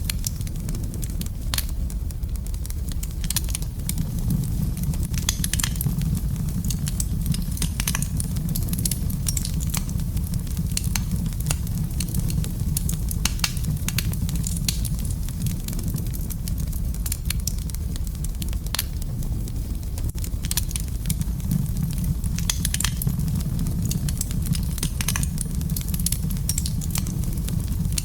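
Wood fire burning in a fireplace, a steady low rumble of flames with irregular sharp crackles and pops throughout.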